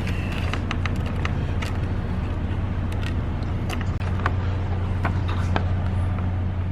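Semi-truck engine droning steadily while on the move, with scattered sharp clicks over it.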